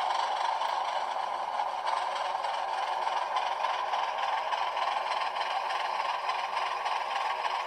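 HO-scale locomotive's LokSound V5 sound decoder playing a diesel switcher engine sound through a tiny sugar cube speaker, running steadily and thin, with no bass. Light clatter of the wheels on the model track runs underneath.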